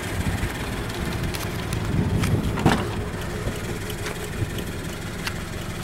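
Steady low hum of a car engine idling, likely the 2013 Subaru BRZ's flat-four, with a few light clicks and knocks over it.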